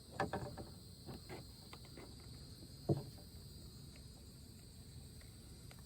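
Steady high-pitched drone of insects. Over it come a few short knocks and rattles in the first second and a half, and one louder knock about three seconds in.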